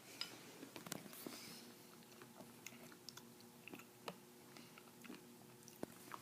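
Near silence broken by faint scattered clicks and smacks of someone eating, over a faint steady hum.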